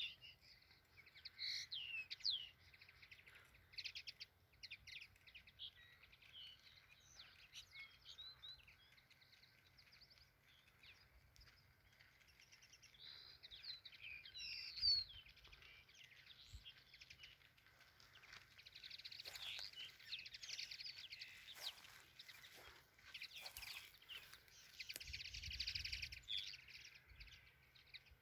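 Small birds chirping and singing, many short quick calls overlapping, busier in the second half.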